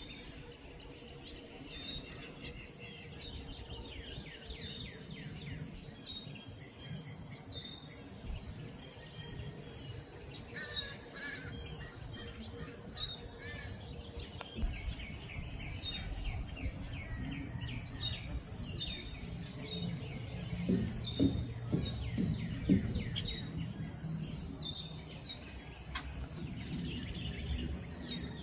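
Songbirds chirping and calling, with many short repeated chirps and quick downward notes over a low background rumble. About two-thirds of the way through, a few louder low knocks stand out.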